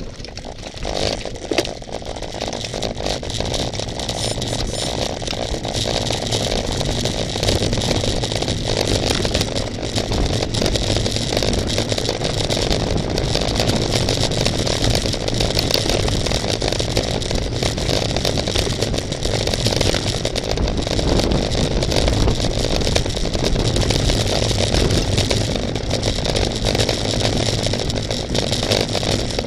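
Steady rushing and rattling noise of a racing bicycle on the move: wind on the microphone with road rumble and clatter, picking up a little over the first few seconds.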